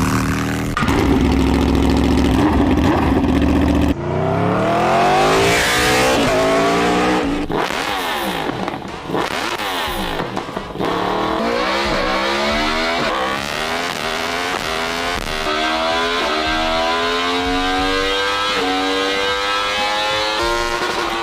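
Motorcycle engines running hard: a steady high-revving note, then after an abrupt change about four seconds in, the pitch sweeps up and down repeatedly as the engine revs and climbs through the gears.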